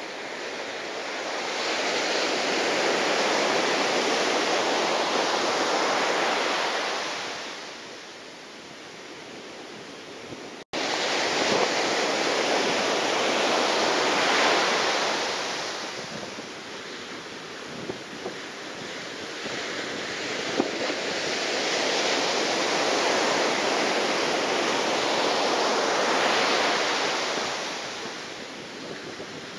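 Rushing wind and water noise in storm conditions, surging loud for several seconds at a time and easing between, three times over. The sound cuts out for an instant about a third of the way in.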